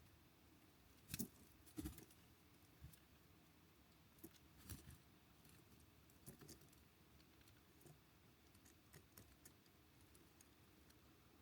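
Birds pecking at seed on a feeder: irregular sharp taps and clicks, the two loudest a little over a second in, then lighter scattered taps.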